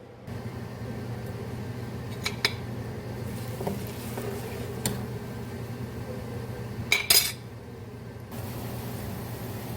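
Kitchen utensils clinking against dishes and pans: a few separate clinks, the loudest cluster about seven seconds in, over a steady low hum.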